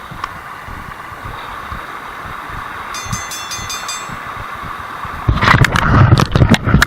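Mountain stream water rushing steadily, with a brief clicking rattle about three seconds in. In the last second and a half it is drowned by loud, rough bumping and rubbing noise close to the microphone.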